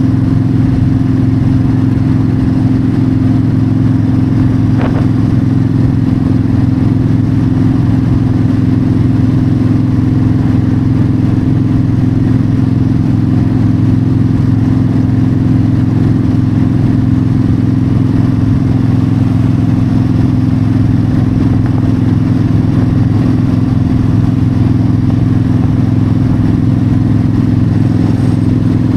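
Yamaha V-Star 1300's V-twin engine running steadily at constant cruising speed, its pitch holding level, with wind noise over it.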